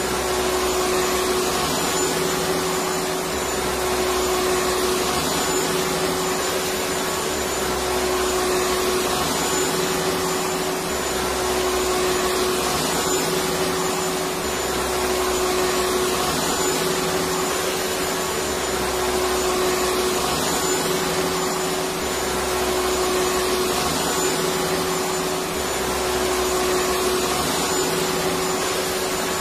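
Electric vacuum cleaner running continuously: a steady rushing motor noise with a constant hum, and a low rumble that swells and fades about every four seconds.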